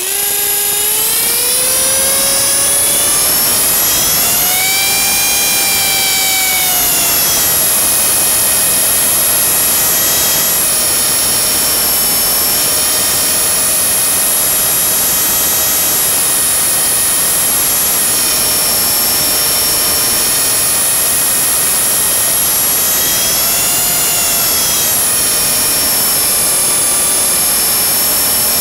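Blade 300 X micro RC helicopter's electric motor and rotor spooling up with a rising whine, then running steadily at a high pitch. The pitch swells up and back down twice, a few seconds in and again about three-quarters of the way through.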